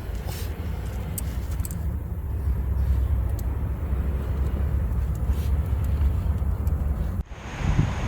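A car's steady low road and engine rumble, heard while driving. About seven seconds in it cuts off abruptly to gusty wind noise and surf.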